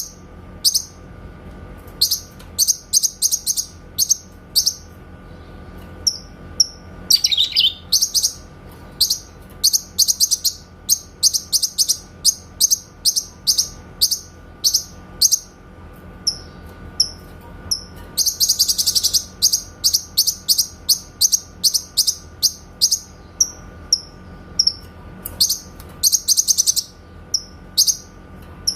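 Cucak kinoy (a leafbird) singing its clear, rapid-fire 'tembakan' song: fast trains of sharp, high chirps in repeated bursts, with one downward-sweeping note about seven seconds in. A faint steady hum runs underneath.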